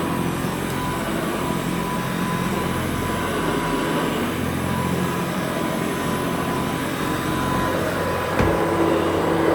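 Rebuilt Kirby 517 upright vacuum cleaner running steadily while vacuuming, a constant motor hum with a higher whine over it. A single sharp knock about eight seconds in.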